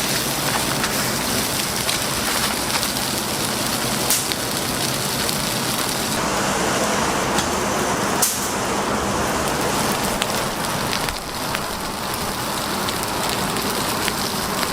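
Steady crackling and sizzling of a wood fire under roasting chickens, with a few sharper pops.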